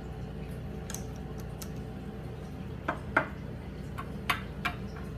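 A handful of light, sharp clicks and taps, about six spread unevenly over a few seconds, two of them close together about three seconds in, over a steady low background hum.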